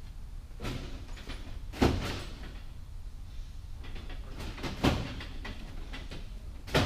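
Tools and transmission parts being handled on a workbench: several separate clunks and knocks, the loudest about two seconds in, over a low steady hum.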